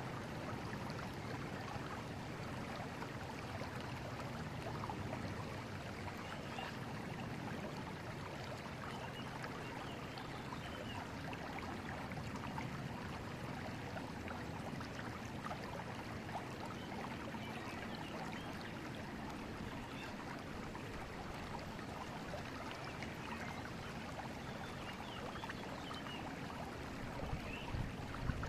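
River water flowing: a steady, even rush of running current.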